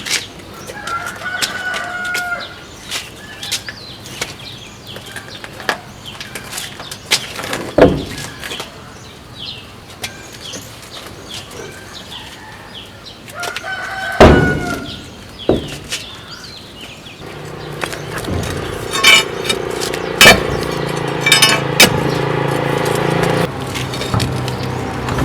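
A rooster crows, about a second in and again around 14 seconds, over scattered metallic knocks and clanks of work. From about 17 seconds a steady machine hum runs underneath.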